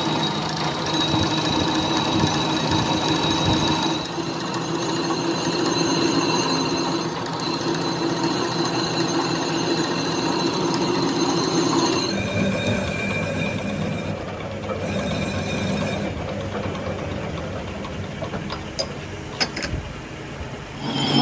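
Workshop machinery running steadily with a whine, its tone changing abruptly three times as one run gives way to another, and a few sharp clicks near the end.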